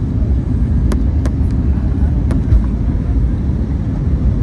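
Steady, loud low rumble of an Airbus A321's engines and airflow heard inside the passenger cabin, with a few faint clicks.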